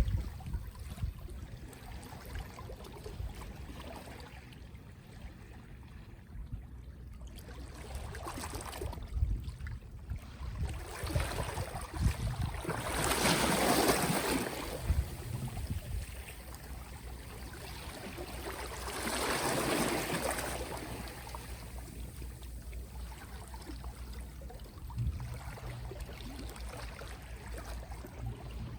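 Small, gentle sea waves washing onto the shore. Two swells of surf rise and fall, about six seconds apart, over a steady low rumble.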